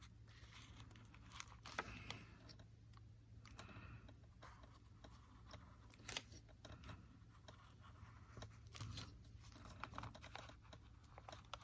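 Near silence: faint scratching and a few light ticks of a dry colour stick being worked over paper, over a steady low hum.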